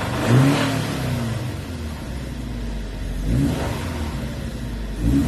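Scion FR-S 2.0-litre flat-four engine idling, with three quick throttle blips: one just after the start, one about three and a half seconds in, and one near the end. The engine is said to have a slight rod knock.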